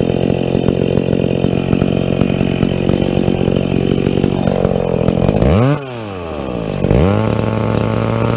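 Chainsaw at full throttle cutting into a tree's trunk, the undercut on a tree being felled. About five and a half seconds in the engine comes off load, its pitch swings sharply down and up, and it settles into a steady lower note.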